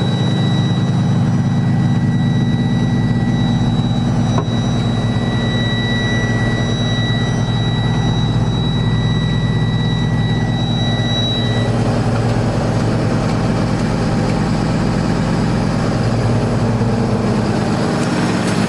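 Cummins ISB diesel engine of a Freightliner M2 water truck idling steadily. A high, steady whine rides over it until about two-thirds of the way through, and there is one brief click about four seconds in.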